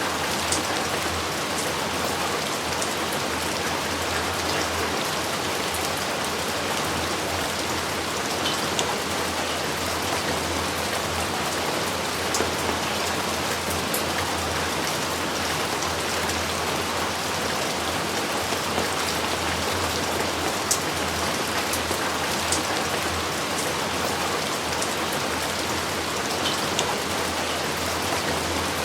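Steady heavy rain falling, an even hiss with scattered sharp drop ticks and no thunder.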